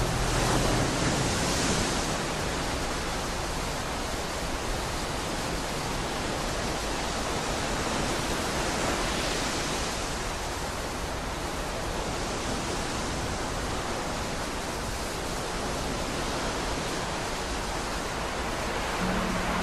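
Steady rushing noise, an even hiss with no beat or melody, used as a noise passage in an experimental black metal track. A low steady tone comes in near the end.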